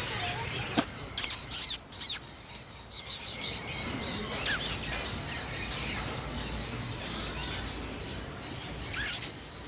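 Birds chirping, with three loud shrill calls close together about a second in, scattered chirps after them, and one more shrill call near the end.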